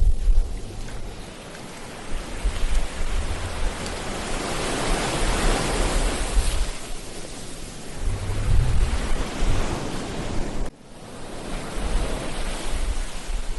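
Ocean waves washing on a beach, with one wave swelling to a peak around the middle and fading. Wind buffets the microphone with low rumbles at the start and again near the end, and the sound drops out abruptly for a moment near the end.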